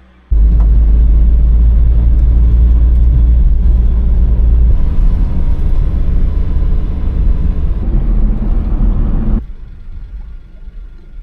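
Road vehicle driving: a loud, steady low rumble that starts suddenly and drops to a much quieter level about nine seconds in.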